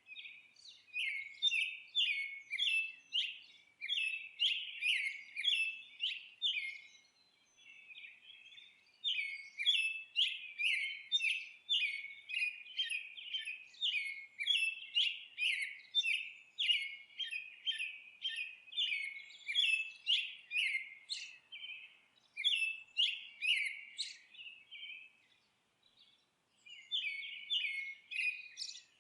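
Songbird twittering: short bright chirps repeated about two a second in long runs, with brief pauses about a third of the way in and near the end.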